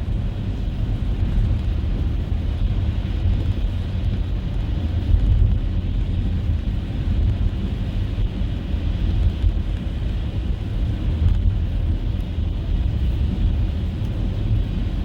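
Car driving through snow: a steady low rumble of engine and tyre noise on a snow-covered road, with no change in speed.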